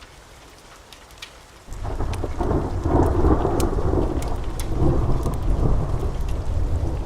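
Steady rain, then a roll of thunder breaks in suddenly under two seconds in, rumbling deep and loudest about a second later before carrying on. Sharp little crackles sit over the rain before the thunder.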